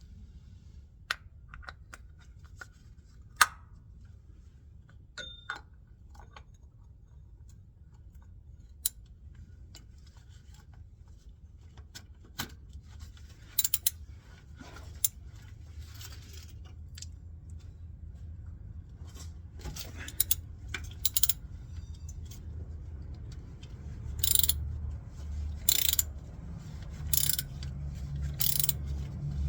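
Metal tools and parts clinking and knocking as they are handled, several clinks ringing briefly, with a series of short, sharp bursts of noise near the end.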